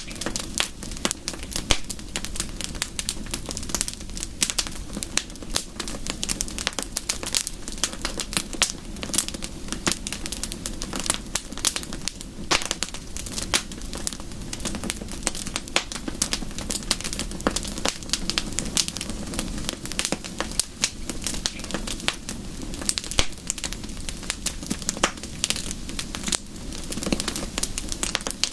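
Wood fire crackling steadily: dense, irregular pops and snaps over a constant low hiss and rumble.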